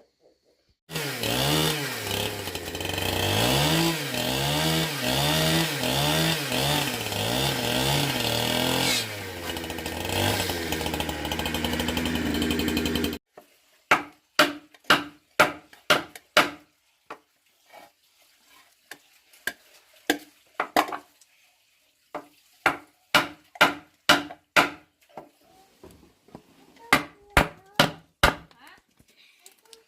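A power saw, likely a chainsaw, cuts wood for about twelve seconds, its pitch dipping and rising again and again as it bites and frees. It then stops abruptly and is followed by hammering on wood: sharp knocks in quick groups of several blows with short pauses between.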